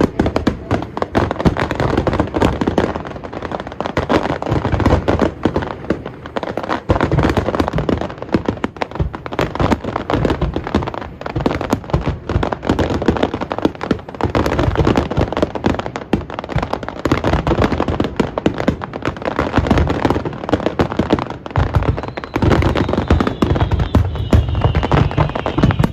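Aerial fireworks display: a rapid, continuous barrage of shell bursts and crackling, many bangs a second with no pause. Near the end a faint whistle slides down in pitch.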